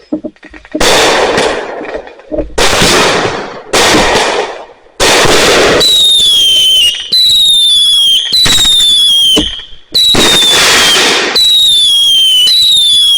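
Consumer fireworks going off loudly: several hissing, crackling bursts, then a rapid series of whistling shells, each whistle short and falling in pitch, mixed with bangs.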